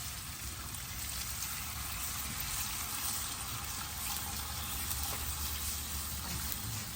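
Homemade chicken stock being poured into a hot pan of softened mushrooms and onions, the liquid running in and sizzling steadily.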